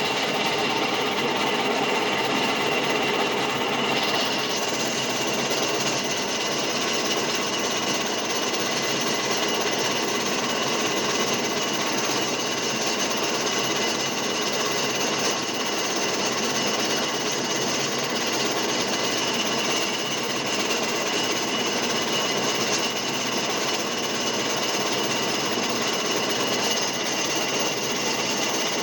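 Lathe running steadily, with a steady high whine over a constant mechanical rattle; the noise turns brighter and hissier about four seconds in.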